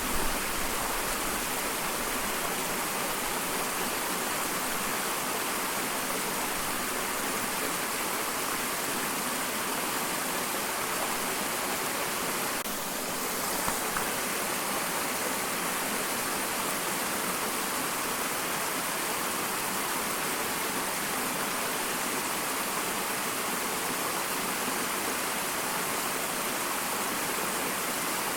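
Small waterfall: water falling and splashing in a steady rush.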